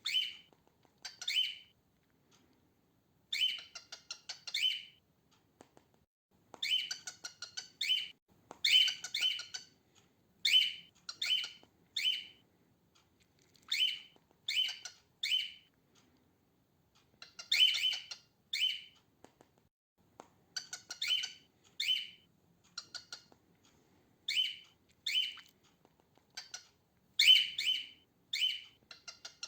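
Female cockatiel calling: short, harsh chirps, some alone and some in quick runs of two to four, with brief pauses between them. This scratchy chirping, not whistling, is the female cockatiel's usual song.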